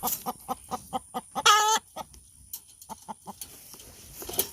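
Chickens clucking in a quick run of about four clucks a second, with one loud, wavering squawk about one and a half seconds in. The clucking stops a little after three seconds in.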